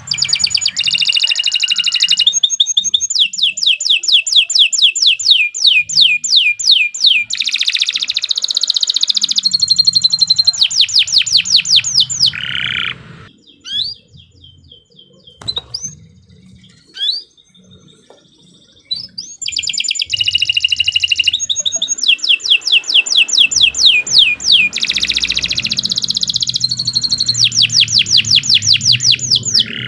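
Domestic canary singing long, loud phrases of rapid trills and rolls. The song breaks off for about six seconds midway, leaving only a few scattered chirps, then starts again.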